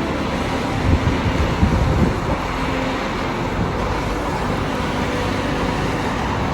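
Road traffic noise: motor vehicles running past, with a louder low rumble about one to two seconds in.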